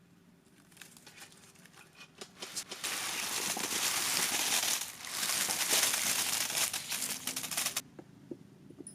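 Plastic sweet wrappers or packaging crinkling and rustling: scattered crackles at first, then dense crinkling from about three seconds in, with a short break around five seconds, stopping near the end.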